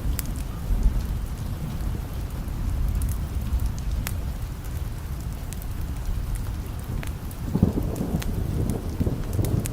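Steady rain with a low thunder rumble, the thunder swelling again about three-quarters of the way through, and scattered sharp ticks over it.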